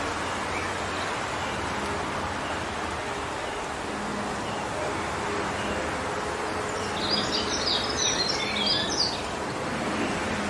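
Wind blowing steadily through forest trees. From about two-thirds of the way in, a bird sings a quick, jumbled phrase of high notes lasting about two seconds, and a few faint chirps come and go.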